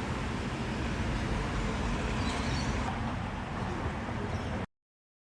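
Steady wind noise buffeting the microphone ahead of a thunderstorm: an irregular low rumble with a hiss over it, cutting off abruptly into dead silence about four and a half seconds in.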